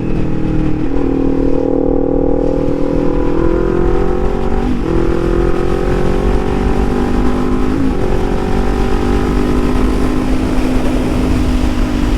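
Motorcycle engine heard from the rider's own bike, pulling steadily higher in revs, dropping briefly about five and eight seconds in as it shifts up a gear, then running on at an even speed.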